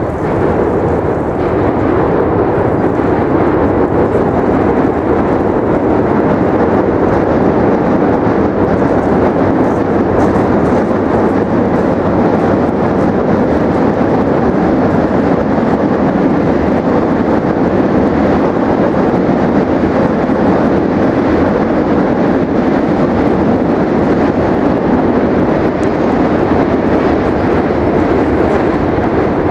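A steady, loud rushing noise that holds even throughout, with no distinct events.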